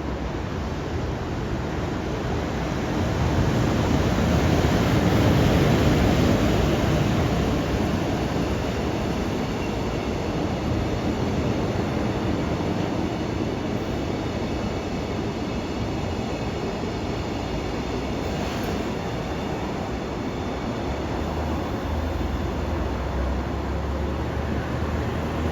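EF510 electric locomotive hauling a freight train past: a continuous rumble of wheels on rail that swells to its loudest about five seconds in and then runs on steadily as the wagons roll by, with faint high squeals from the wheels in the middle.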